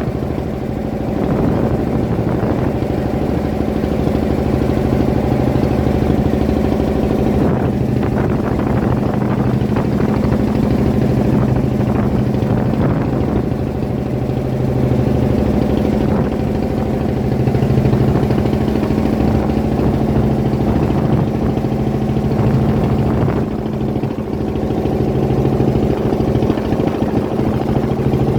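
Fishing boat's engine running steadily at an even pace, a constant low drone.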